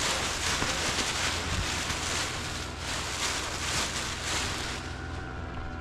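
A car driving past, a steady rushing of tyres and engine over wind buffeting the microphone, fading away about five seconds in.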